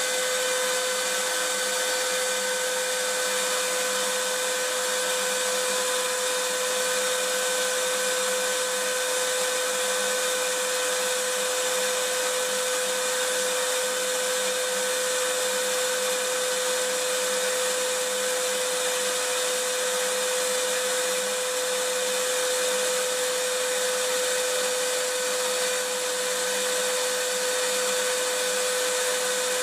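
Vacuum cleaner running steadily: an even rush of motor and airflow noise with a constant whine, unchanging throughout.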